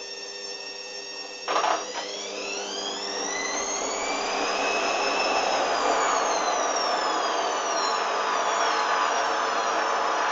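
Hoover washing machine's motor and drum: a sudden knock about a second and a half in, then the motor whine rises as the drum speeds up into a spin, and falls away again in the second half.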